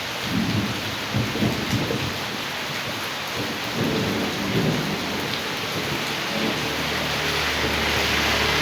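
Heavy rain and rushing rainwater runoff, a continuous hiss with irregular low rumbling surges. A steady low hum comes in near the end.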